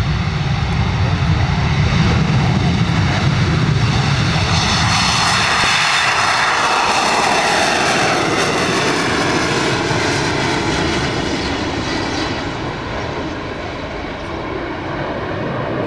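Fixed-wing aircraft making a loud pass, its engine noise sweeping down in pitch as it goes by about halfway through, then easing off.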